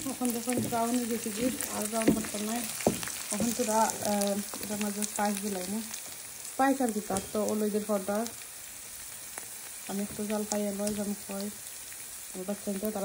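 Onion paste sizzling as it fries in oil in a nonstick pan, stirred with a wooden spatula, with a few sharp knocks of the spatula about two and three seconds in. A person's voice comes and goes on and off underneath.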